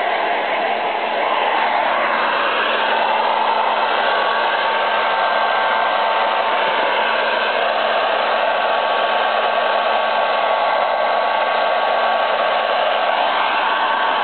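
Hair dryer running steadily: a loud rushing hiss of blown air with a faint steady whine in it.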